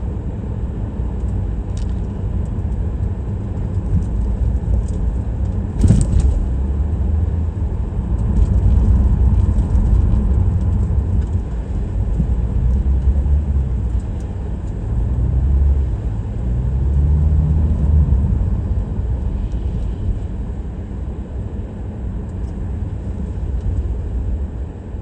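A car being driven, with a steady low rumble of engine and road noise. The engine note rises and falls a few times around the middle, and there is a single sharp knock about six seconds in.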